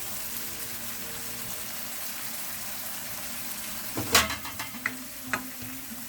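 Saltfish, chicken feet, pig feet and tripe frying with onion and carrot in a pot: a steady sizzle. About four seconds in there is a loud clatter against the pot, followed by a few lighter knocks.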